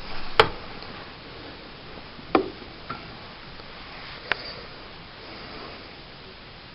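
Four short, sharp knocks or clicks, the loudest about half a second in and the others near 2.4, 2.9 and 4.3 seconds, over a steady hiss.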